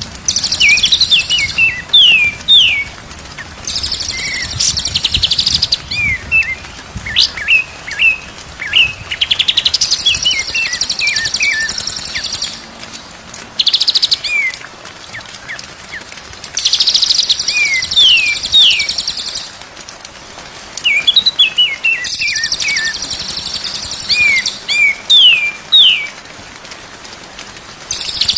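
White-rumped shama singing loudly in repeated phrases. Quick down-slurred whistles alternate with bursts of rapid, high, buzzy trills, each phrase lasting a second or two.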